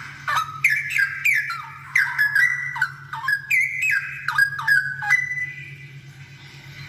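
Straw-headed bulbul singing a rapid run of loud, liquid whistled notes, many sliding down in pitch, for about five seconds before it stops. A steady low hum runs underneath.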